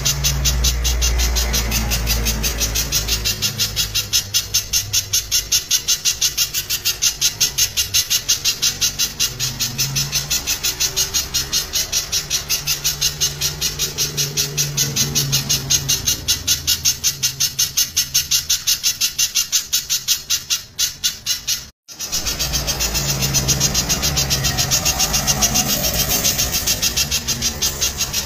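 Spiderhunter calling loudly in rapid, tightly packed repeated notes, about three a second, with a brief break a little past twenty seconds. A low rumble sits underneath.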